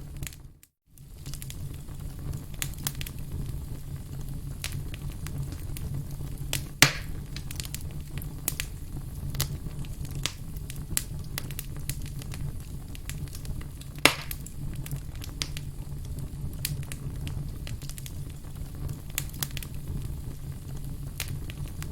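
Wood campfire crackling, with a steady low rumble under many small crackles and two sharp, louder pops about seven seconds apart. The sound drops out briefly just after the start.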